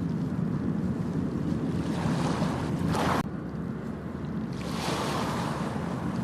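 Ocean waves surging and washing up a beach over a steady low rumble of surf, with some wind on the microphone. One wash swells and cuts off suddenly about three seconds in, and another rises about five seconds in.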